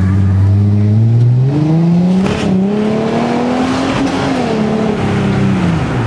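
2005 Ford Mustang's 4.0-litre V6 running through a new aftermarket exhaust under hard acceleration. The engine note climbs steadily for about four seconds, then drops away near the end.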